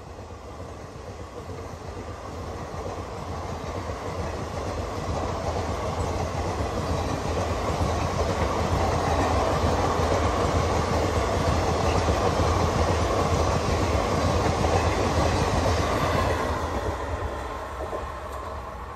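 Passenger coaches of an express train rolling past on the track, their wheels running over the rails. The noise builds gradually, holds steady, then fades near the end as the last coach draws away.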